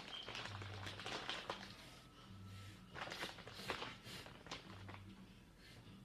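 Close-miked crackling and crinkling from handling and eating a burrito, in irregular clusters. Faint low pulsing tones repeat about every two seconds in the background.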